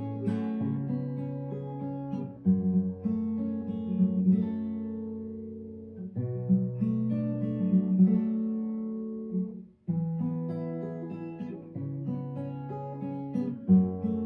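Acoustic guitar playing an instrumental piece: picked chords over a low bass line, changing every second or two. There is a brief break just under ten seconds in.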